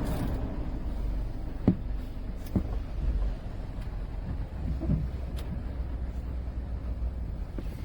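Car cabin noise: a steady low rumble with a few short knocks scattered through it.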